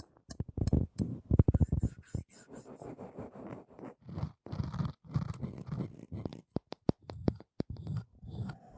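Close-miked ASMR trigger sounds: an uneven series of sharp taps and clicks mixed with scratching.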